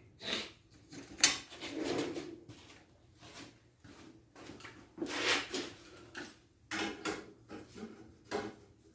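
Irregular clanks, knocks and scraping of metal exhaust pipe and clamps being handled and fitted, with one sharp knock about a second in and a longer scrape about five seconds in.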